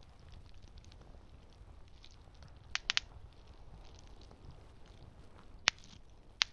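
Campfire crackling: a low steady rush with scattered small crackles and sharp pops, three in quick succession about three seconds in and two louder single pops near the end.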